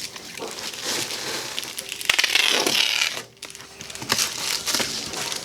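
Reflective bubble-foil insulation crinkling and crackling as it is handled and cut, in uneven rustles, the loudest about two seconds in.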